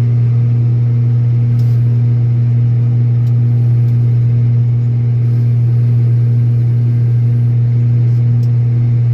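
Old Steiger four-wheel-drive tractor's diesel engine running at a steady speed, heard from inside the cab as an even, loud low hum.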